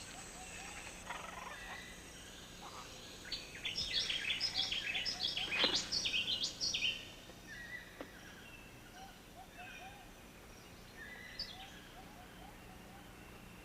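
Tropical rainforest ambience with birds calling, including a quick run of many high chirping notes from about three to seven seconds in, then scattered short calls.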